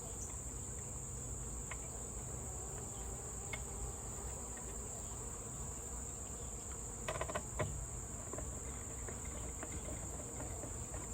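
Honeybees buzzing close by over a steady high-pitched insect trill, with a few light clicks about two-thirds of the way through.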